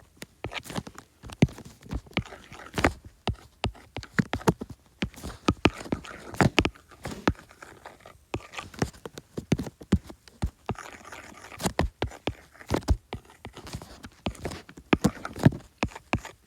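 iPad pencil stylus tapping and scratching on the iPad's glass screen while drawing: irregular sharp clicks, several a second, with brief pauses.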